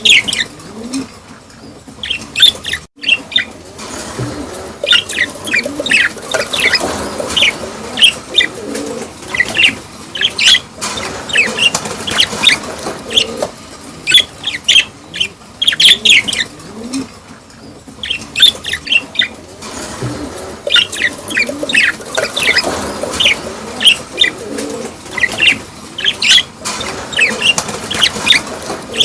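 Small cage birds chirping in repeated bursts of quick, high chirps, a burst every second or two.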